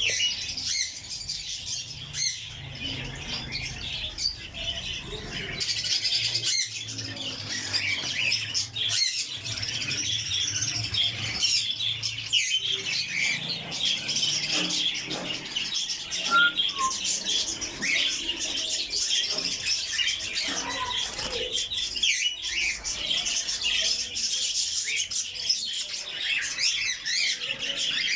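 Many caged birds chirping and squawking together in a dense, continuous chatter.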